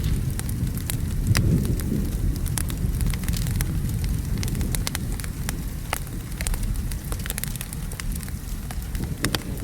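Wood fire crackling with frequent sharp pops and snaps over steady rain and a low rumble of thunder.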